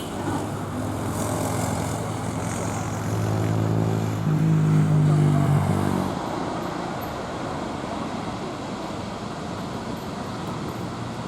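A motor vehicle's engine running close by, a low droning tone that grows louder and stops abruptly about six seconds in, followed by steady traffic noise.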